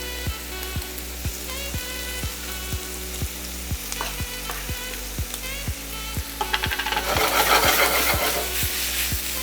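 Diced ham, onion, sweet pepper and fried plantain sizzling as they sauté in a frying pan and are stirred. The sizzle swells louder about seven seconds in.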